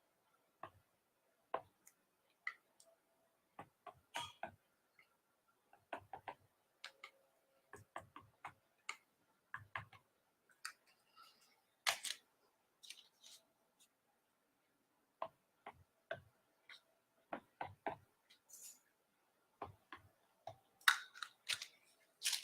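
Scattered faint clicks and light taps, irregularly spaced, from handling paint cups and mixing tools, over a faint steady hum.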